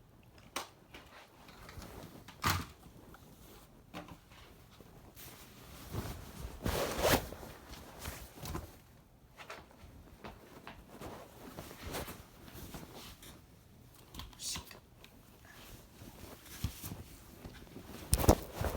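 Irregular rustling, clicks and small knocks of objects being handled, loudest in a rustle about seven seconds in.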